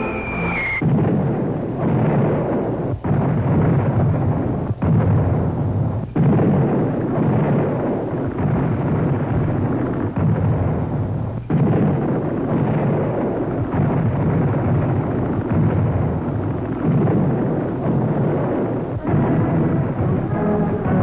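Battle sound effect on an old recording: a falling whistle ends in a blast, followed by continuous rumbling artillery fire and explosions, with fresh blasts every few seconds. Music comes back in near the end.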